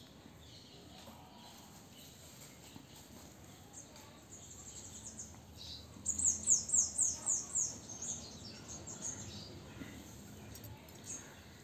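A small bird calling: a quick run of short, high, falling notes, about four a second, for some two seconds starting about six seconds in. A shorter high note comes before the run and another comes near the end. Under it, faint rustling and ticks of fingers working through damp hair to pick out nits.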